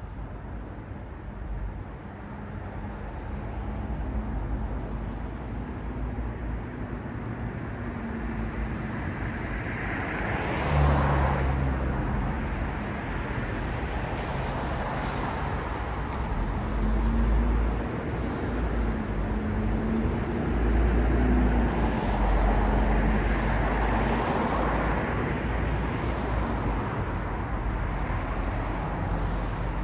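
City street traffic: cars and buses running past with a steady hiss and low rumble of tyres and engines, and a low engine hum that comes and goes. One vehicle passes loudly about a third of the way in, and louder passes follow in the second half.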